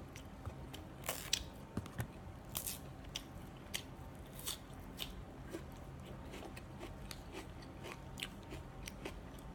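A person eating chicken liver and sticky rice by hand, chewing with close mouth smacks and irregular small clicks, more often in the first half.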